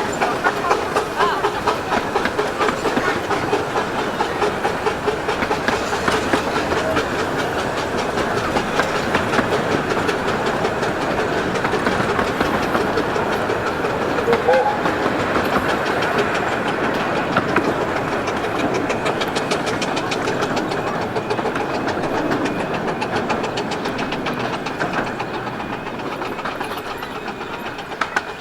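Ride noise of a 15-inch-gauge Romney, Hythe and Dymchurch Railway train under way, heard from on board: a steady rumble with rapid clicking of wheels over the rails, growing quieter near the end.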